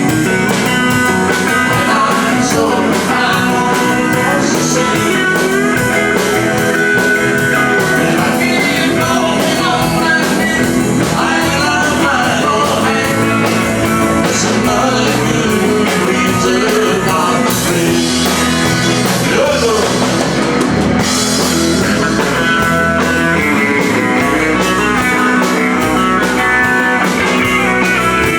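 Live band playing a loud, steady rock-country number, with guitar prominent over bass and drums.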